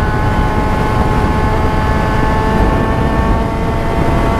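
Yamaha FZ6 (Fazer 600) inline-four engine running at a steady cruise through a WR sport exhaust with the dB killer left out, its pitch holding level. Heavy wind rumble on the microphone from riding at road speed.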